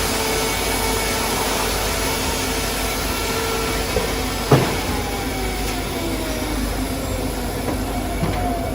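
Pezzolato firewood processor running steadily with a low mechanical hum. A sharp knock comes about halfway through, followed by a slowly falling whine.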